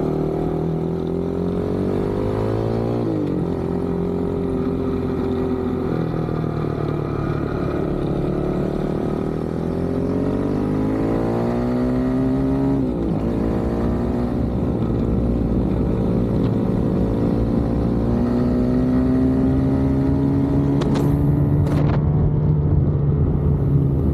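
Kawasaki KLX110 dirt bike's small single-cylinder four-stroke engine under way, its pitch climbing as it accelerates and dropping sharply about three seconds in and again about thirteen seconds in. A short burst of noise near the end.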